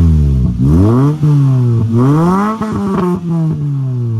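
Toyota Celica GT-S's 2ZZ-GE four-cylinder engine on its stock exhaust being revved in about three quick blips, the pitch climbing and dropping each time, then falling away near the end.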